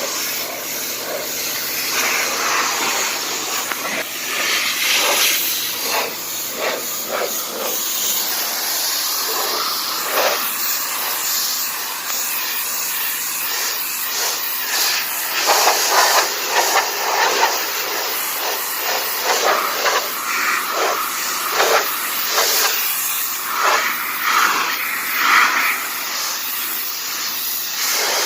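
High-pressure water jet from a pressure washer wand hitting a car's bodywork, a steady hiss and spatter that surges and changes as the spray is swept across the panels.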